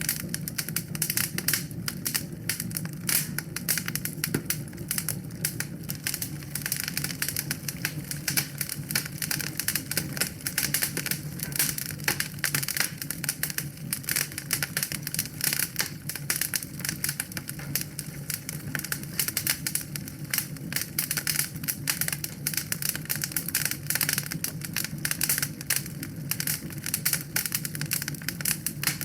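Wood fire burning in a fireplace, crackling with dense, irregular pops and snaps over a steady low rumble.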